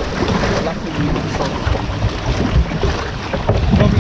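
River rapids rushing and splashing around a paddled boat, with paddle splashes and wind buffeting the microphone.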